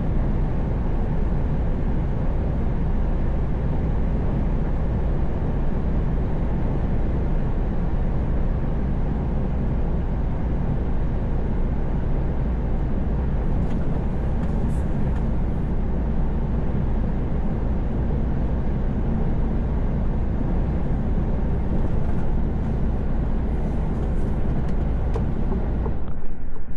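Truck cab noise at highway cruising speed: a steady low engine drone and road noise, with a few faint ticks in the second half.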